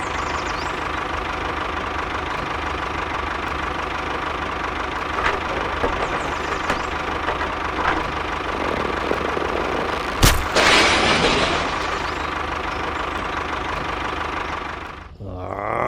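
A motor running steadily, typical of a running engine. About ten seconds in there is one sharp click followed by a brief louder rush, and the sound drops away suddenly near the end.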